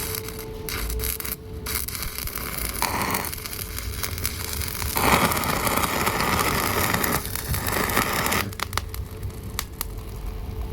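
Arc welding: the welding arc crackling and sputtering in spells, with louder hissing bursts about three seconds in and from about five to eight and a half seconds in.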